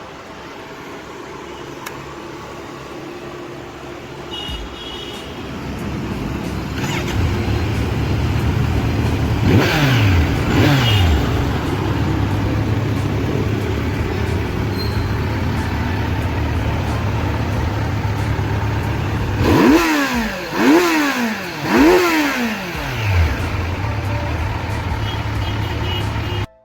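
Kawasaki Z900 inline-four motorcycle with an aftermarket full-system exhaust, idling and revved. It is blipped twice about ten seconds in, then revved sharply three times in quick succession later on, each rev rising and falling back to idle.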